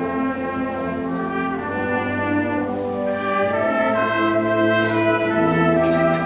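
A high school concert band playing held brass chords that grow a little louder about halfway through, with a few short high-pitched percussion hits near the end.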